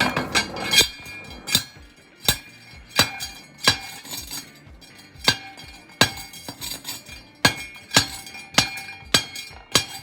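Hand rock crusher being smacked again and again to pulverize quartz hard rock: about a dozen sharp ringing strikes, one roughly every two-thirds of a second, at a slightly uneven pace.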